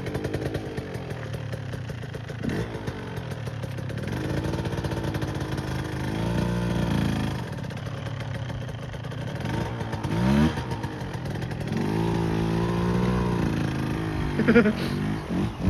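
Husqvarna TC125 two-stroke dirt bike engine running and revving, its pitch rising and falling several times, with a quick sharp rev near the end.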